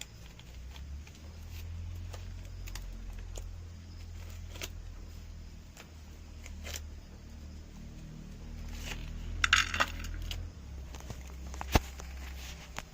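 Dry maize stalks and husks rustling and snapping as ears of corn are picked by hand: scattered clicks, a short crackling rustle about nine and a half seconds in and a sharp snap near the end, over a low rumble.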